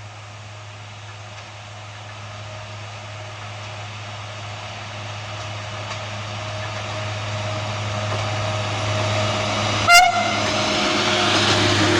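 Diesel rail vehicle approaching, its engine hum and the running noise growing steadily louder, with one short horn blast about ten seconds in.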